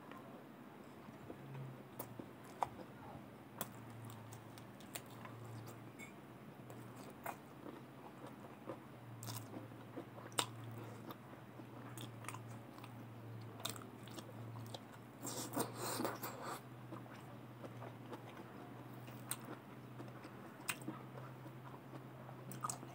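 Close-miked chewing and biting of a mouthful of rice with fried green beans and potato, with scattered sharp mouth clicks and a denser patch of chewing noise about two-thirds of the way through. A low steady hum runs underneath.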